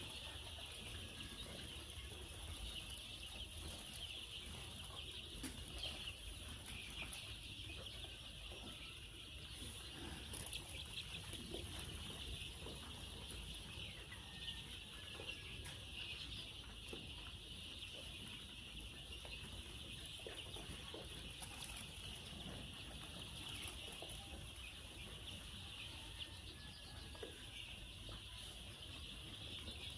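Chickens clucking faintly, with a few wing flaps, over a steady high-pitched insect drone.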